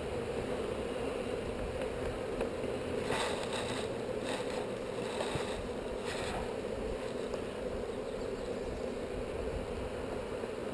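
Steady hum of many honeybees buzzing around an open hive, with a few brief scrapes about three, four and six seconds in.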